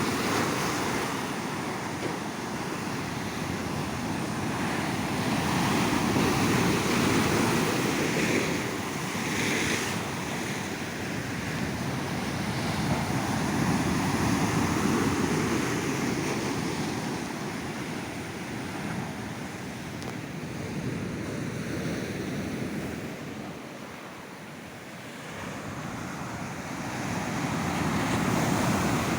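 Sea waves breaking and washing up on a sandy beach, the surf swelling and easing every several seconds.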